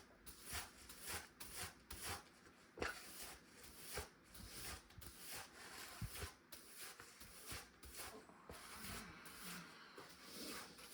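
Faint, repeated short brushing strokes of a broom pushing swept dirt and dust into a dustpan, with light knocks from handling.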